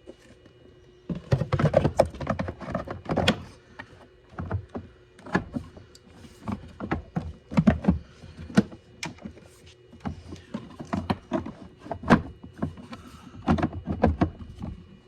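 Hard plastic parts knocking and clicking in an irregular run as a car's plastic cover is handled and fitted into place.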